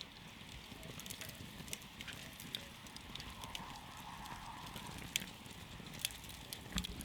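Wood campfire crackling: irregular sharp pops and snaps over a steady low hiss and rumble of burning.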